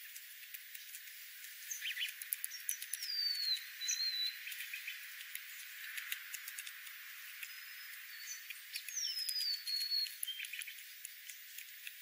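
Small birds chirping in short whistled notes, two of them gliding down in pitch, over scattered light clicks.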